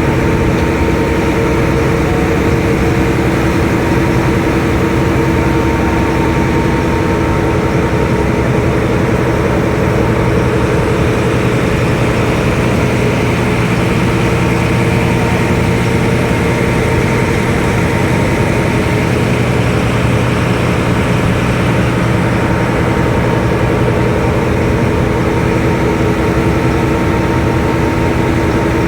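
Ferry boat's engine running steadily underway, a loud, even drone with a few steady humming tones.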